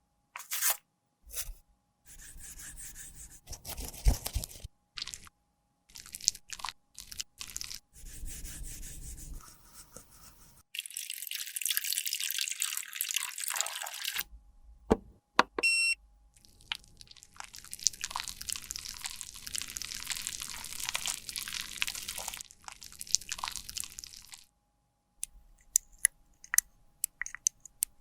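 Close-miked sounds of repair work on a lipstick: scattered clicks, taps and handling noises, with two longer stretches of steady hiss in the middle.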